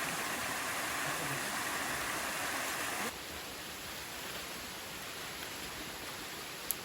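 Steady rushing of a waterfall and stream, dropping suddenly to a quieter level about three seconds in. A single sharp click comes near the end.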